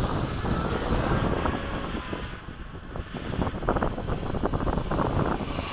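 Electric motors of a mini B-17 RC model airplane in flight, giving a high whine that glides in pitch, fades in the middle and swells again near the end. A low rumble of wind on the microphone runs underneath.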